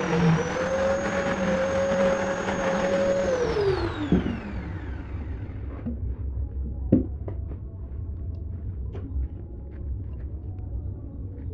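Electric woodworking power tool running at a steady speed, then switched off about three seconds in and spinning down with a falling whine over a couple of seconds. A few light knocks and taps follow over a low rumble.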